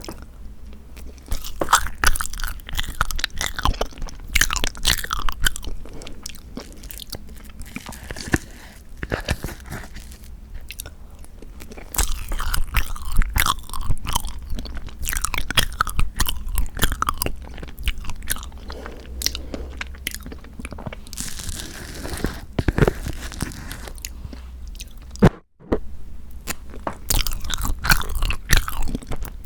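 Close-miked eating of bean curd tiramisu cake: chewing and biting with many quick mouth clicks and smacks, and a sudden brief drop-out about 25 seconds in.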